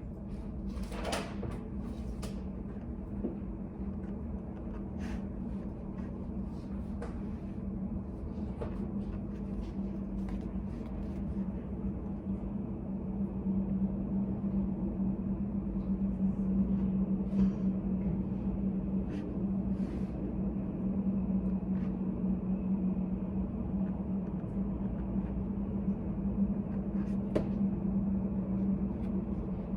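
Steady room hum of a study cafe, a low drone from its machinery or ventilation, with scattered light clicks and taps of desk work, a small cluster of them about a second in.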